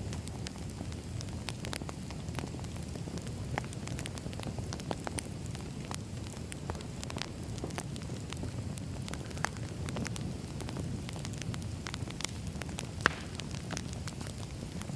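Campfire crackling: a steady low rush of burning with irregular sharp pops and snaps scattered throughout, one louder pop about 13 seconds in.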